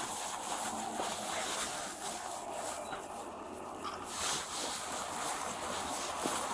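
Wind rushing over the microphone as a steady, uneven hiss, dipping slightly around the middle.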